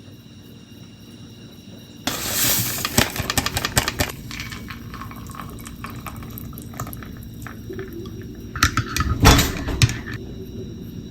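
Water running from a tap and splashing, starting suddenly about two seconds in, with clatters and knocks of dishes or utensils, loudest near the start and again about nine seconds in.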